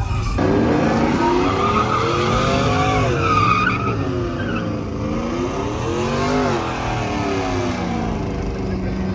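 Truck engine revving up and down in long swells, with tyre squeal.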